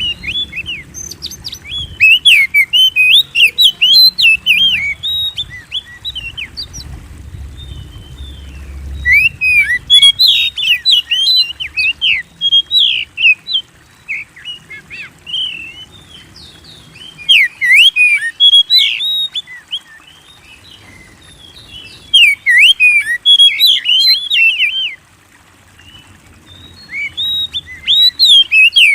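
Oriental magpie-robin (kacer) singing: about five bouts of quick, varied, sweeping whistled notes, each a few seconds long, separated by short pauses.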